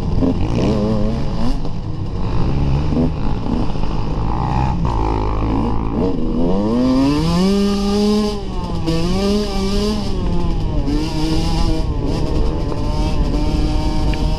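Dirt bike engine under way, the revs wandering, then climbing steeply about six seconds in and dropping and rising again several times, over a steady low rumble.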